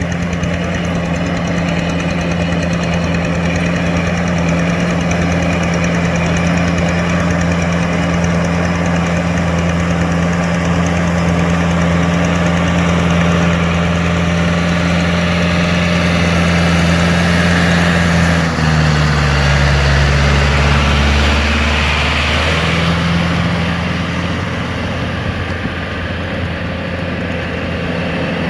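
Yanmar EF725T tractor's diesel engine running steadily. About two-thirds of the way through, the engine speed drops for roughly four seconds, then picks back up to its earlier pitch.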